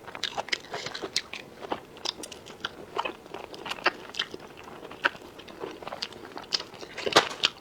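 A person chewing crunchy food close to the microphone: irregular crisp crunches and bites, several a second, with the loudest crunch near the end.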